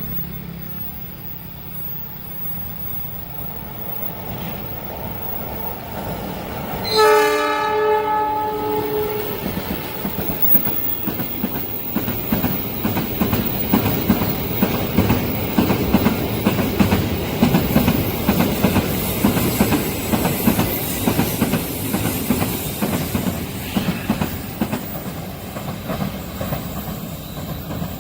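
Indonesian railway train approaching, sounding one horn blast of about two seconds, about seven seconds in, then running past with a steady clickety-clack of wheels over the rail joints that grows louder.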